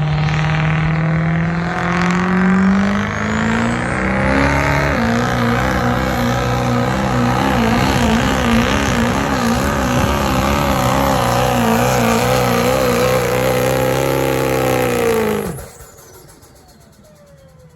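Diesel pickup truck engine at full throttle under load in a truck pull. The revs climb over the first few seconds, then hold high and steady with a wavering note. The engine cuts off suddenly about fifteen seconds in, followed by a fading, falling whine.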